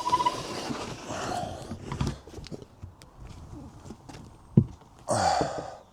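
Hands pulling a board off a van's interior panelling: irregular knocks, clicks and rubbing, with one sharp knock a little after four and a half seconds and a short scraping burst about five seconds in.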